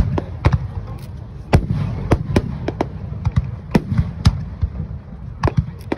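Fireworks display: aerial shells bursting in a rapid, irregular string of sharp bangs over a continuous low rumble, with the biggest reports about a second and a half in and again around four seconds.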